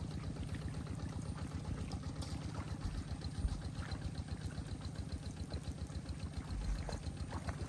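A small engine running steadily at idle, with an even, fast pulsing beat.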